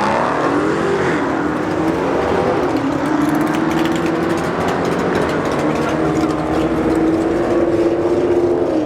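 Drag-racing car engines at full throttle running down the strip. The note climbs sharply and drops back about a second in, then holds high and slowly rises for several seconds before falling away at the end.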